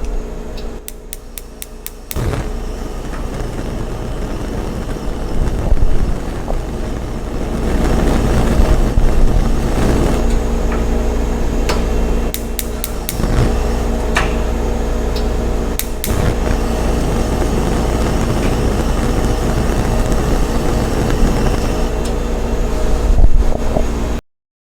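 Stock sound effect of a vehicle running: a steady low rumble and hum with scattered clicks and knocks.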